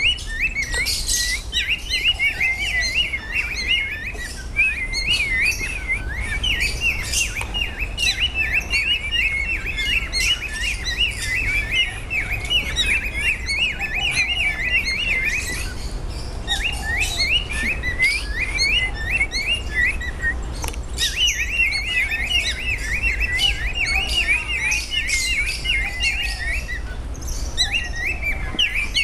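A flock of small birds chirping and twittering in quick, dense chatter. The chatter runs almost without a break, pausing briefly a couple of times.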